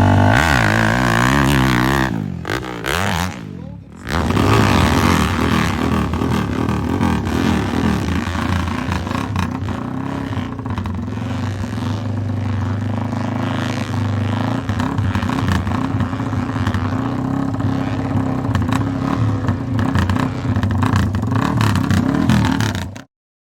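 GasGas MC450 four-stroke dirt bike engine revving hard, its pitch rising and falling with the throttle. It sags briefly about two to four seconds in, then runs hard and steady until it cuts off suddenly near the end.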